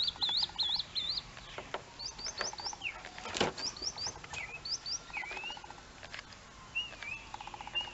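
Small birds chirping over and over in several kinds of short whistled calls: quick up-and-down notes at first, then rising hooked notes and falling notes. One sharp click comes about three and a half seconds in.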